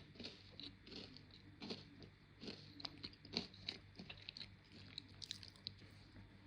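Close-up chewing of dry, crunchy food: irregular small crunches, several a second, fairly faint.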